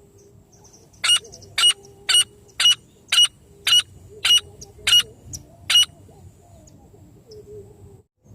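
A francolin (teetar) calling: a series of nine sharp, loud notes at about two a second, stopping about six seconds in.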